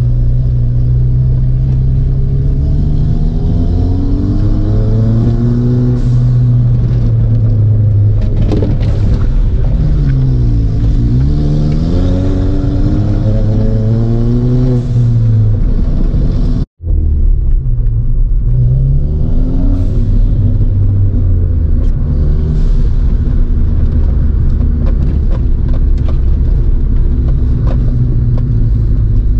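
Stage 3 tuned Ford Fiesta ST's turbocharged 1.6-litre four-cylinder engine, heard from inside the cabin, pulling and revving up and down repeatedly through the gears on a spirited drive. The sound cuts out for a split second about two-thirds of the way through.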